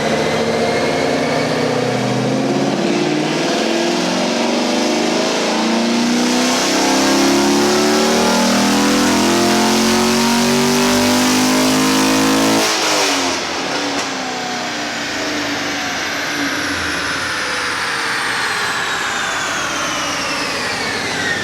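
Modified sixth-generation Camaro V8, with an LT2 intake manifold, headers and a ported throttle body, making a wide-open-throttle pull on a chassis dyno. The engine pitch climbs steadily for about ten seconds and cuts off suddenly a little past halfway, then a falling whine follows as it coasts down.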